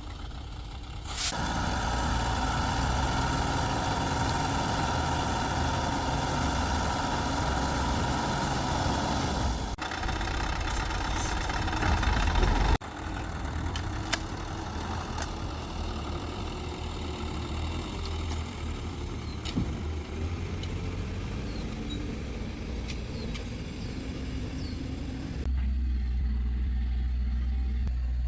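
A heavy vehicle's engine running steadily, the sound changing abruptly several times, with a few faint ticks.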